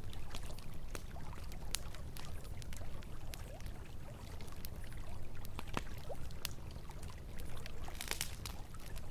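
Campfire crackling with frequent sharp pops, a denser run of crackles about eight seconds in, over the steady rush of flowing river water.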